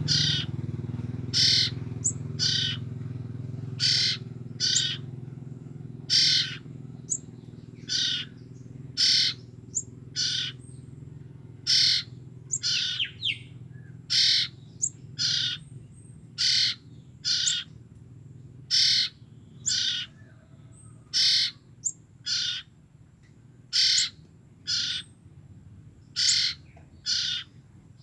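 Two-week-old common iora chicks giving short, raspy calls over and over, one or two a second: young birds calling for their parents.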